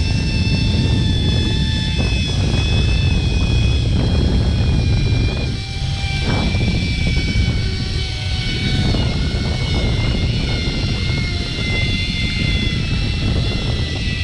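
A steady engine drone over a heavy low rumble, with a high whine that slowly falls in pitch.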